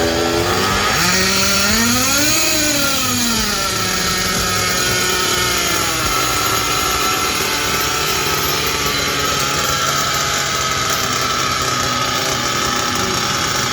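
RB Concepts WS7-II .21 nitro engine in a 1/8 buggy starting up, revving up once about two seconds in and dropping back, then settling into a steady, stable idle.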